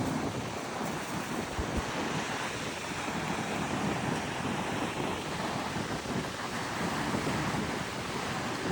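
Ocean surf washing onto the beach, with wind blowing across the microphone: a steady rush of noise.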